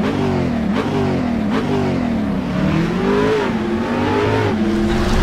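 Infiniti Q60 Red Sport 400's twin-turbocharged V6 exhaust revving, the pitch rising and falling in several quick blips, then holding a steadier, higher note near the end.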